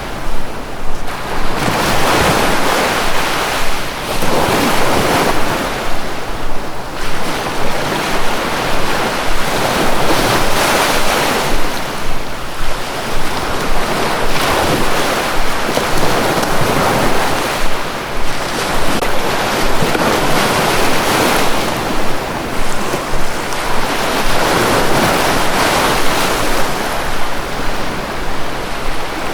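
Sea waves breaking and washing on a shore, a continuous surf that swells and eases every few seconds, with wind.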